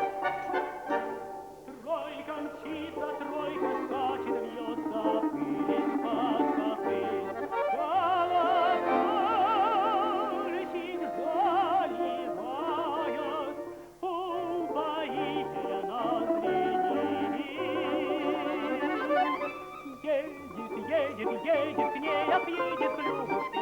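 A tenor singing in a classical style with wide vibrato on held notes, accompanied by an instrumental ensemble, with brief breaks between phrases.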